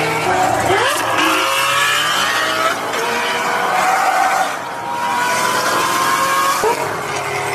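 Car engine revving hard, its pitch climbing in long glides over road and tire noise.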